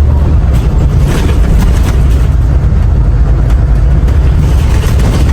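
Steady low rumble of a city bus's engine and road noise, heard from inside the moving bus.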